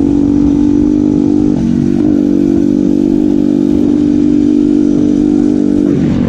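Motorcycle engine running hard at a high, steady pitch, with a brief dip in pitch about a second and a half in.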